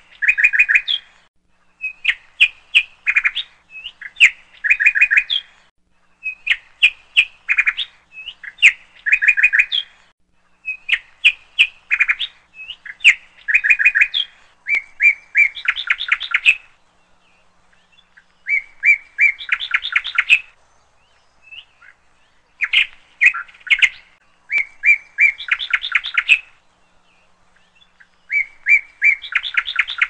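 Small bird chirping in repeated phrases of rapid clicks and chirps, each lasting a second or two, with short gaps and a couple of longer pauses.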